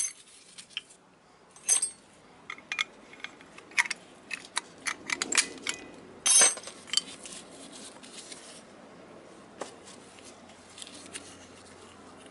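Small metal tools and parts clinking and tapping against each other in a run of sharp, irregular clicks, busiest in the middle, with one loud clank about six seconds in, then only a few light taps.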